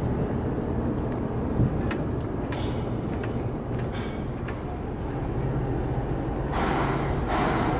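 Steady low engine drone of ferry machinery and vehicles idling and driving aboard during car loading, with scattered light clicks and knocks. A brief hissing rush comes twice near the end.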